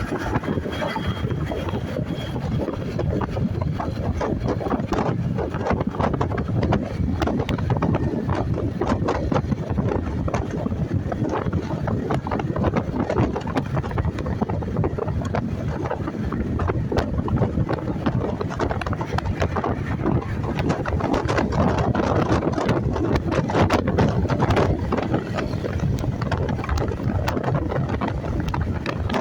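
Wind rushing over the microphone of a moving motorcycle, mixed with engine and road noise, growing a little louder after about twenty seconds.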